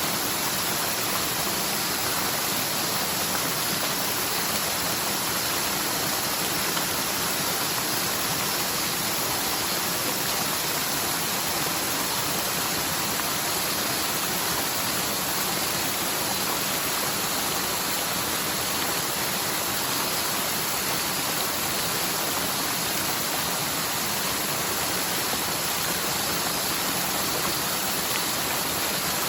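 Rain-swollen mountain stream rushing steadily over its bed, a stream that is normally almost dry, running high after a typhoon's heavy rain.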